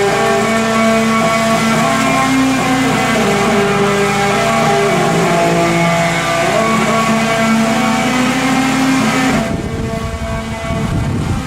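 Parade-float or vehicle sound: a motor vehicle running with music playing, with long held notes that change pitch in steps. The sound changes abruptly near the end.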